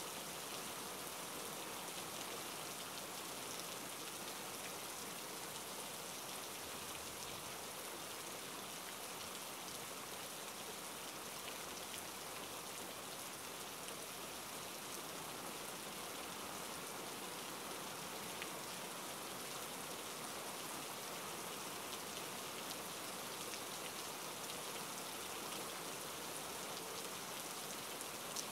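Rain falling: a steady, even hiss that does not let up.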